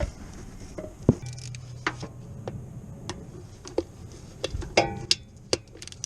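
Hand tools and metal parts clinking and knocking together during work on a car: about eight sharp separate clinks, the loudest near the end with a brief metallic ring.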